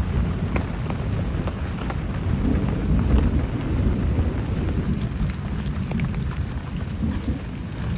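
Heavy rain falling steadily, with scattered sharp drop impacts close by over a constant low rumble.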